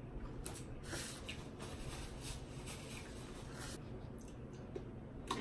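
Close-up eating sounds of someone eating sauced chicken wings: wet chewing and mouth noises with soft rustling and a few small clicks.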